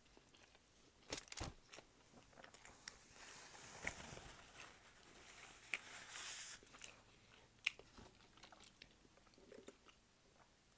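Close-up chewing and crunching of fast food: bites and mouth clicks in scattered bursts, with quieter stretches in between.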